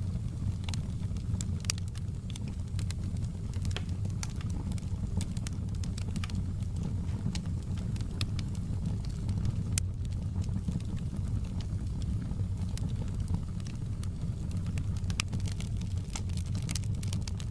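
Campfire burning, with a steady low rumble and frequent sharp crackles and pops of the wood, some of them single louder snaps.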